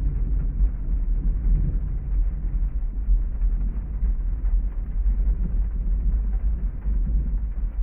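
Heavy rainstorm ambience heard muffled: a steady, deep rumble with little high hiss and no separate claps or strikes.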